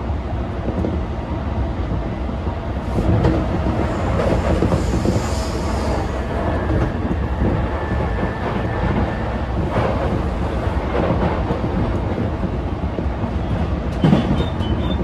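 JR East E233-0 series electric commuter train running at speed, heard from inside the car beside the doors: a steady rumble of wheels on rail with occasional clicks from rail joints.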